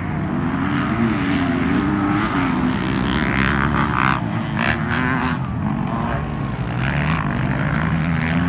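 Motocross bike engines racing, their pitch rising and falling as the riders rev and shift.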